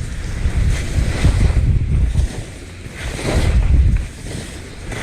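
Gale-force mountain wind gusting over the camera microphone: a loud low rumbling buffet that surges and eases, with lulls about two seconds in and again about four seconds in.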